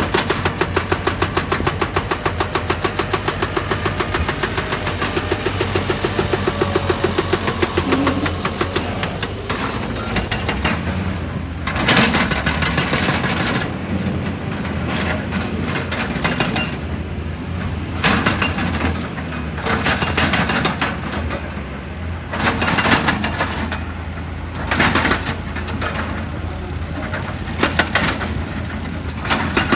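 Heavy diesel engine of an excavator running. It pulses rapidly and evenly for the first ten seconds or so, then settles into a steadier run with short louder surges every few seconds.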